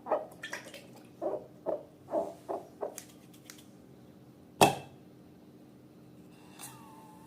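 Slime squelching in a quick series of short wet squishes, then one sharp pop about four and a half seconds in.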